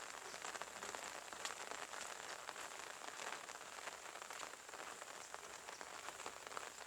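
Steady rain falling: an even hiss dotted with many small, irregular drop ticks.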